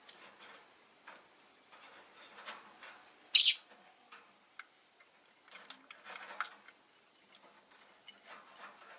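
Rosy-faced lovebirds in a cage: scattered soft clicks and short chirps, with one loud, sharp, high call about three and a half seconds in and a cluster of chirps around six seconds in.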